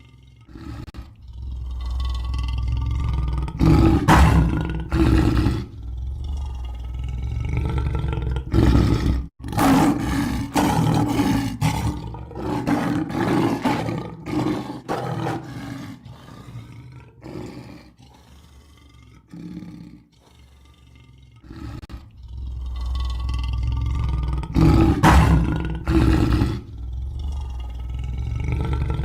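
Lion roaring again and again: deep, loud roars that swell to peaks, with quieter grunting stretches between them. About nine seconds in the sound cuts out for an instant and the roaring starts over.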